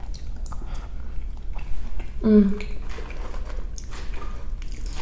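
Close-miked chewing of a mouthful of Cobb salad, with lettuce and avocado, wet and crackly with many small crunches. A brief closed-mouth "mm" hum comes about two seconds in.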